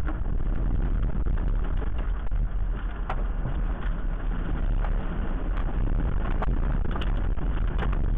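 Strong wind buffeting the microphone: a heavy, steady low rumble with scattered sharp knocks and clatters, like debris being struck.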